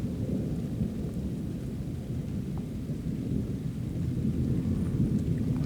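Long, low rumble of thunder rolling on without letup.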